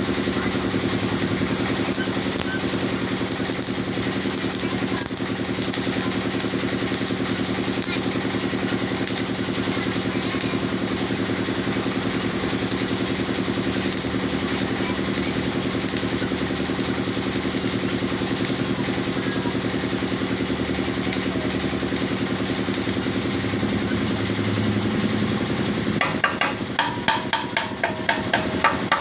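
A steady mechanical hum with irregular crackling. About 26 seconds in, it gives way to rapid hammer blows on metal, roughly three a second.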